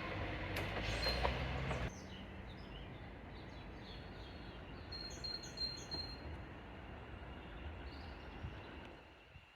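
A train's low rumble with a steady engine note, cut off sharply about two seconds in, leaving a quieter background in which birds chirp a few times around the middle.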